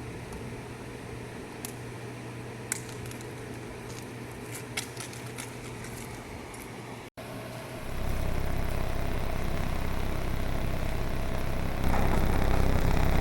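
A steady low hum with a few small clicks, then, after a cut, a loud low-pitched machine rumble sets in and gets louder again near the end: a generator set running in its room.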